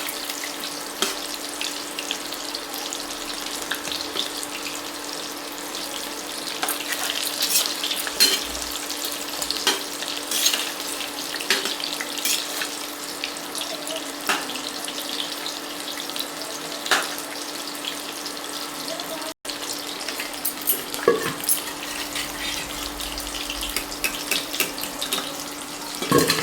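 Battered chicken pakoras deep-frying in hot oil: a steady sizzle with frequent small crackles and pops, over a low steady hum.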